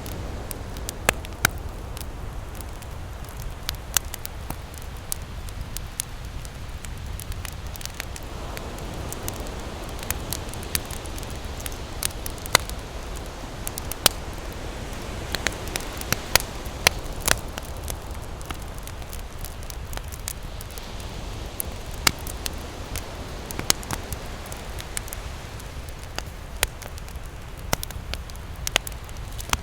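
Wood campfire crackling, with sharp irregular pops, a few much louder than the rest, over a steady low wash of ocean surf that swells and eases.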